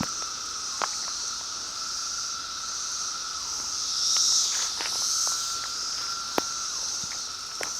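Chorus of Brood X 17-year periodical cicadas: a steady high-pitched shrill with a lower steady drone beneath it, the shrill swelling louder about four seconds in. A few sharp clicks stand out from it.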